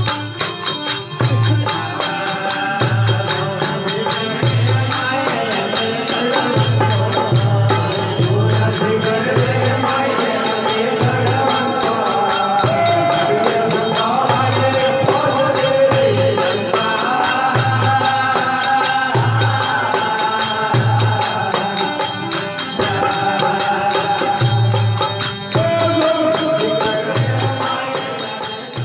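Instrumental passage of a Rajasthani desi veena bhajan: a drum keeps a steady beat under gliding melodic lines from the desi veena.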